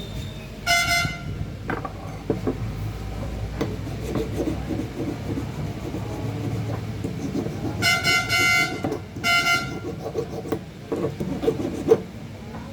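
A horn honks briefly about a second in, then twice more near the end, each honk a bright pitched tone. Low clattering and scattered knocks run underneath.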